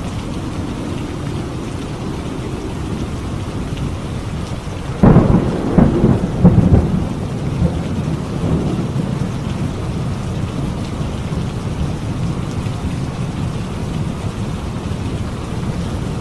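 Steady heavy rain with a sudden close thunderclap about five seconds in, cracking several times and rumbling away over the next few seconds.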